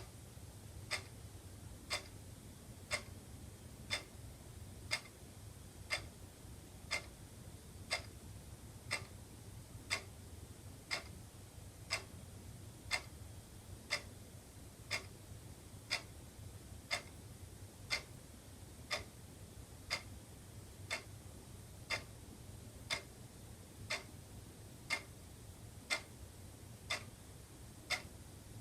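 Wall clock ticking steadily, one sharp tick each second, over a faint low hum.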